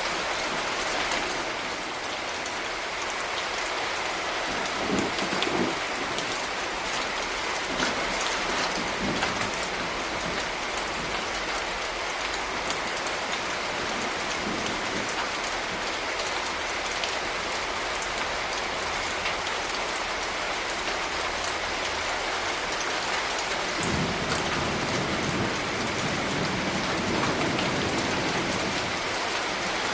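Steady rain falling on hard surfaces, with individual drops pattering close by. A low rumble joins in during the last few seconds.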